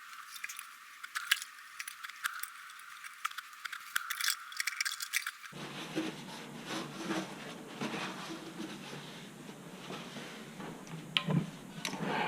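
Light clicks, taps and scrapes of small hard parts or tools being handled, with a sharper click about a second in.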